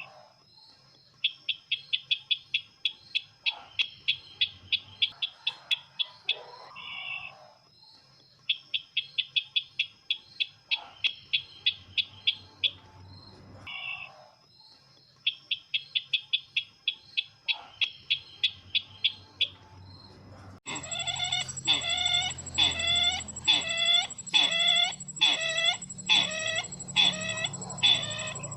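Lure recording of the bird called sisintar ladang: three phrases of rapid chattering notes, each a few seconds long with short pauses between. About two-thirds of the way in, a louder, different call starts suddenly and repeats about twice a second over a thin steady high whine.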